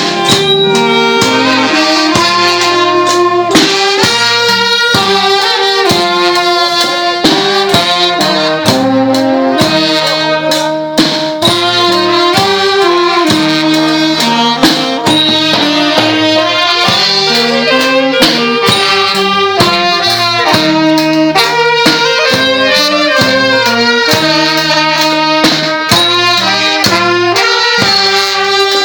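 Thai brass band (trae wong) playing a melody on saxophones and trumpets over a regular drum beat.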